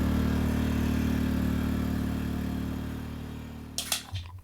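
Small gas generator running at a steady pitch while it charges a power station through an extension cord. It fades out over the last second, and a few sharp clicks and rustles come in near the end.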